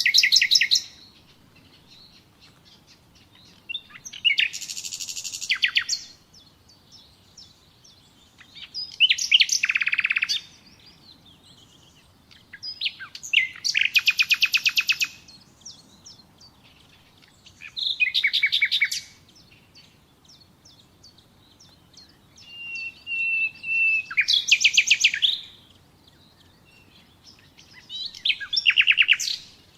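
Common nightingale singing: about seven short song phrases a few seconds apart, each a fast run of rapidly repeated notes, one beginning with a held whistle.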